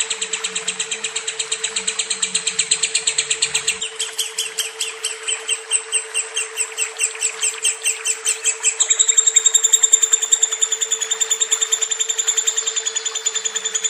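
Lovebird singing a long, unbroken trill of rapid, evenly repeated high chirps, changing pitch a couple of times.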